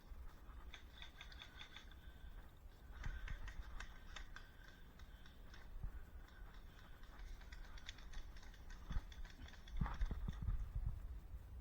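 Faint scattered clicks and rustling, a little busier about three seconds in and again near the end, over a constant low rumble.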